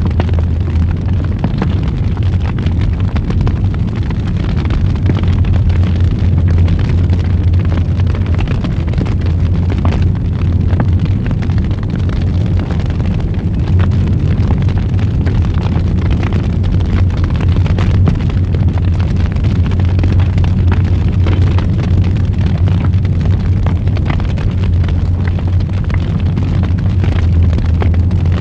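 Wood fire burning in a fireplace: a steady low rumble of the flames with frequent crackles and pops throughout.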